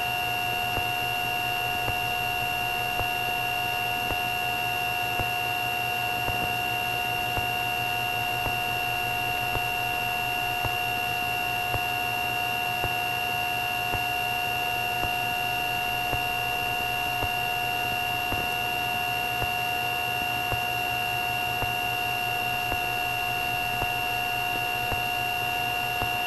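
Cessna 310 twin-engine airplane's engines and propellers droning steadily in the cockpit at reduced power during a descent, a constant drone with two steady high-pitched tones over it.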